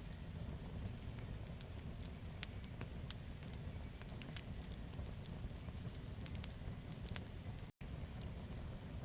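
Campfire burning: a steady low rumble of flames with scattered sharp crackles and pops from the burning wood. The sound cuts out completely for an instant near the end.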